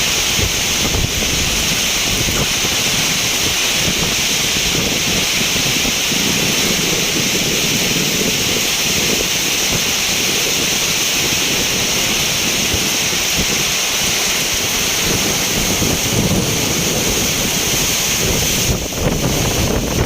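Heavy rain pouring steadily, with wind buffeting the microphone.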